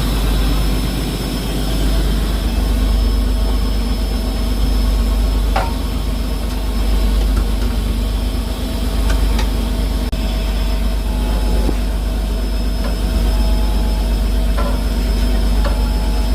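Fishing boat's engine running steadily with a deep, loud hum, a few faint clicks over it.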